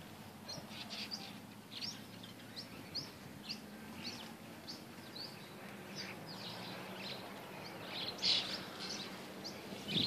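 Small garden birds chirping: short, high chirps, about two a second, with a louder cluster near the end.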